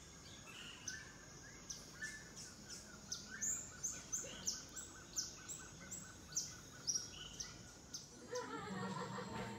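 Rainforest birds calling: a string of short, sharp, high chirps about twice a second over a steady pulsing trill. Voices come in near the end.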